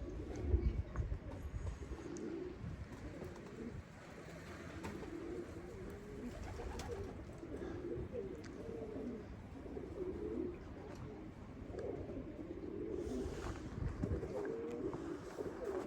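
Domestic pigeons cooing, several overlapping in a continuous warbling murmur, with a few low thumps, about half a second in and again near the end.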